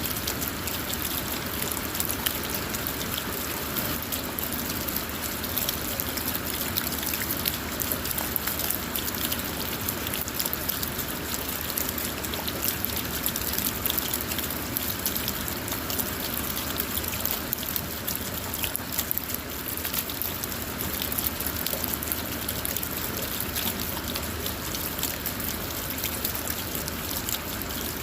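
Steady rain falling on a car, heard from inside: an even hiss with many small, sharp drop ticks scattered through it.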